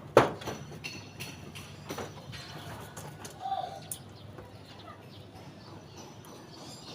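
Pigeons moving about in a loft: one sharp knock just after the start, then scattered light taps and flutters, with a short call about three and a half seconds in.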